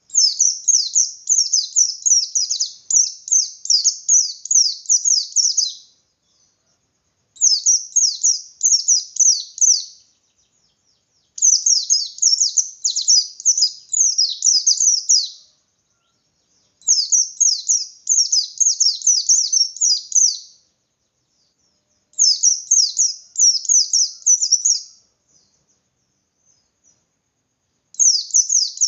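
A white-eye (pleci) singing its full, rapid song: bursts of fast, high, downward-sweeping chirps lasting about three to six seconds each, separated by pauses of a second or two, six bursts in all.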